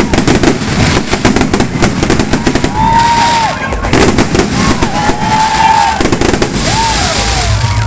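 A barrage of New Year fireworks: dense, rapid crackling and popping, with several short whistles that rise and fall over it.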